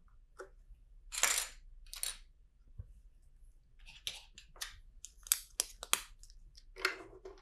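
Plastic LEGO pieces being handled and pressed together as train windows are fitted: a couple of short rustles in the first two seconds, then a quick run of sharp clicks from about four to six seconds.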